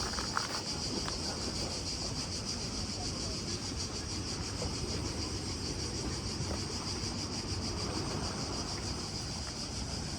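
Insects buzzing in a steady, high-pitched drone, over a low rumble of wind and open-air ambience.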